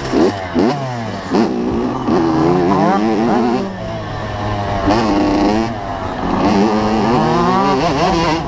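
85cc two-stroke motocross bike engine revving hard and backing off over and over, its pitch climbing and dropping several times.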